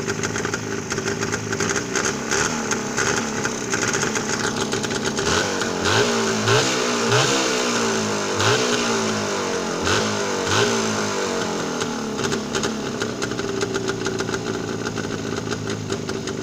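Jawa 638 motorcycle's two-stroke twin engine idling, blipped several times on the throttle in its middle part with quick rises and falls in revs, then settling back to idle.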